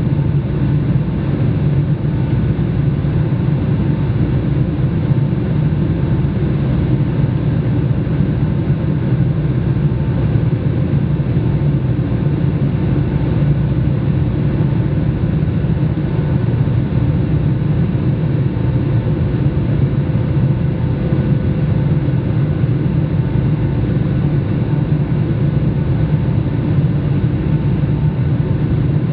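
Steady jet engine and airflow noise inside the cabin of a Boeing 757-200, a constant low drone with a few faint steady tones above it.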